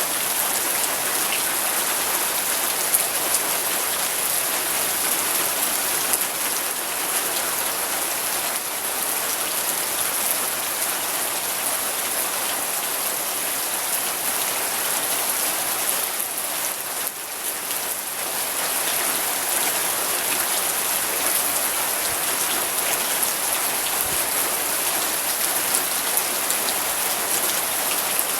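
Steady rain falling on surfaces, a dense hiss of drops with scattered individual drop ticks, easing briefly about two-thirds of the way through.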